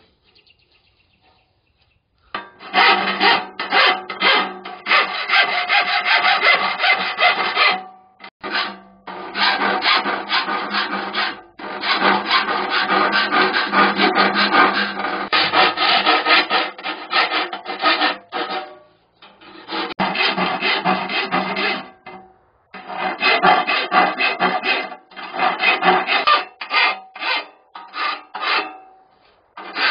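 A hand tool worked in rapid back-and-forth strokes on the steel of a military ammo can, shaping the stove's fuel-feed opening. It starts about two seconds in and comes in spells of several seconds, broken by short pauses.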